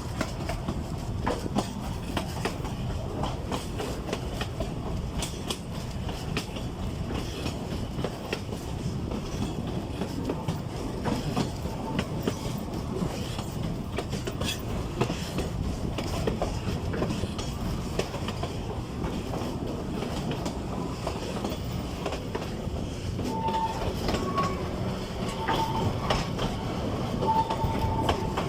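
Narrow-gauge forest railway train hauled by an Mk48 diesel locomotive, running with a steady rumble and wheels clicking over the rail joints. Several brief wheel squeals come over the last few seconds.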